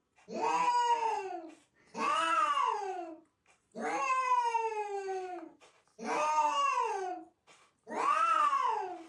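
A cat yowling: five long drawn-out meows in a row, about two seconds apart, each rising and then falling in pitch, the fourth one longer and more level.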